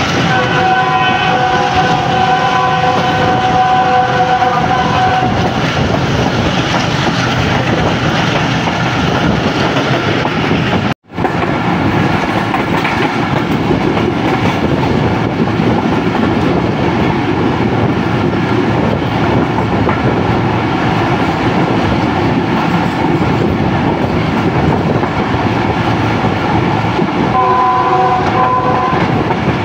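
Passenger train running at speed, heard from the side of a coach: a loud, steady rumble and rattle of wheels on the track. A multi-tone train horn sounds for about five seconds at the start and again briefly near the end. The sound cuts out for an instant about eleven seconds in.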